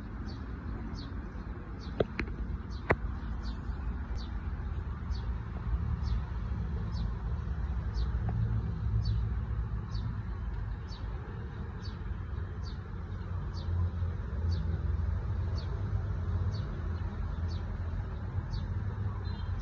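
Bird chirping: short, high, thin falling chirps repeated evenly about twice a second, over a steady low rumble. Two sharp clicks about two and three seconds in.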